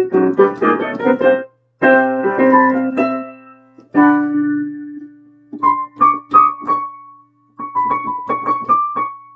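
Piano playing chords: a quick run of struck chords, then one chord held for over a second, then a repeated high melody note over chords.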